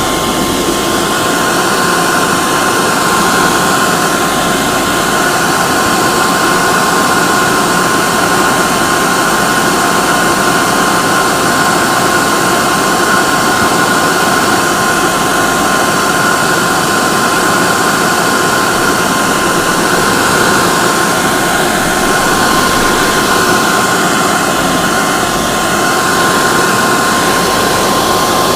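Hair dryer running steadily: a constant loud rush of air with a steady motor whine.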